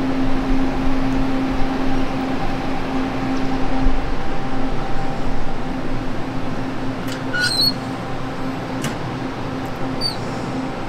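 Steady hum of a passenger train standing at the platform, its equipment running, over general platform noise. Two short high chirps come through, one about seven seconds in and a brief falling one near the end, with a single click between them.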